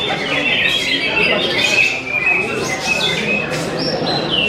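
Several caged greater green leafbirds (cucak hijau) singing at once in a dense, unbroken chorus of quick chirping and warbling phrases, over a low murmur of crowd chatter.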